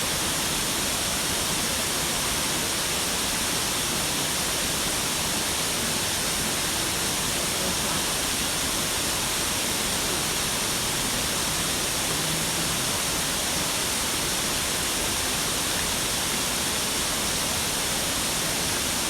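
Waterfall: water falling in a steady, even, hissing rush that does not change.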